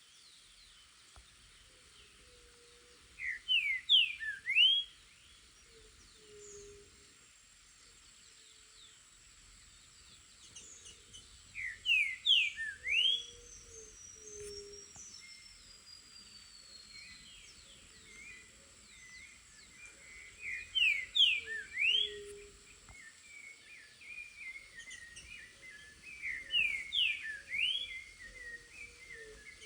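Green-winged saltator (trinca-ferro) singing in the wild: four loud phrases of a few quick whistled notes each, about eight seconds apart. Softer bird chirps and faint low calls fill the gaps.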